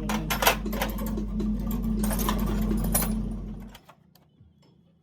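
A motor-driven workshop machine running with a steady hum and a fast clattering rattle, stopping abruptly nearly four seconds in.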